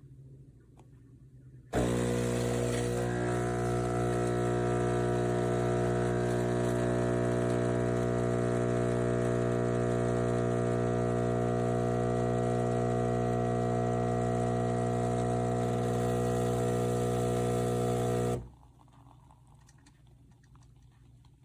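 Philips Series 2300 espresso machine running with a loud, steady hum that starts suddenly about two seconds in and cuts off abruptly some sixteen seconds later.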